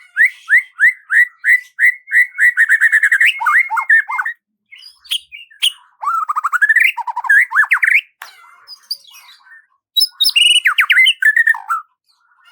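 Songbird singing: a series of quick rising whistled notes, about three a second, that speeds up into a fast trill, followed by varied warbling phrases broken by short pauses.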